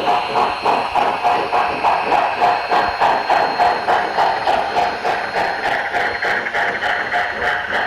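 HO scale model steam locomotive's LokSound 5 sound decoder playing exhaust chuffs through its onboard speaker, in a steady rhythm of about three chuffs a second, with a faint steady high whine underneath.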